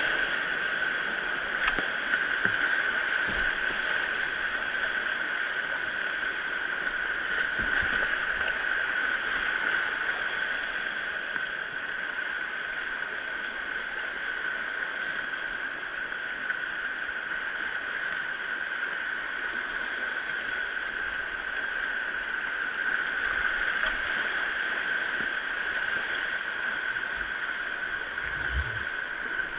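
Mountain stream water flowing and gurgling steadily over rocks, with a few faint low thumps.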